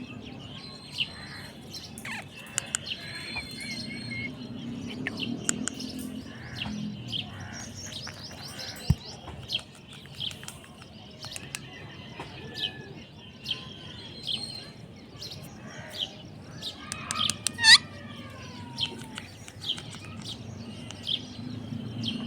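Parrot chirping with many short, sharp calls at irregular intervals. About three quarters of the way through it gives one louder call that slides down in pitch.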